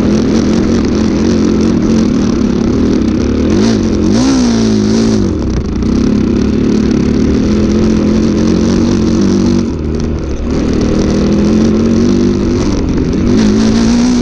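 Dirt bike engine running hard and revving, its pitch swinging up and down twice. The throttle closes briefly about ten seconds in.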